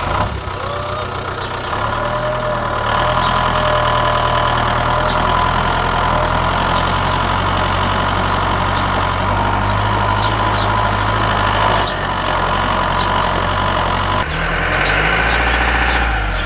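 Tractor engine running steadily, its note changing about three seconds in and again near the end.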